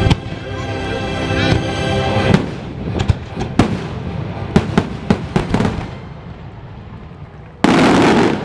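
Fireworks going off in a quick run of sharp bangs over the show's music, which holds long steady notes at first. A sudden loud burst of noise comes near the end.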